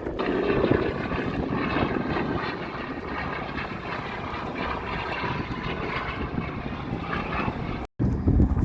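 Airplane engines running steadily as an aircraft flies over the air-show crowd; the sound breaks off for an instant near the end.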